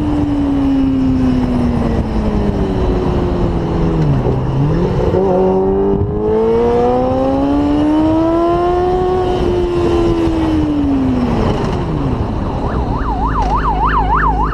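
Motorcycle engine running hard at speed, its pitch falling and rising with throttle and gear changes: it drops about four seconds in, climbs to a peak and falls again near the end. Near the end a police siren starts a fast warbling yelp, about five rises a second.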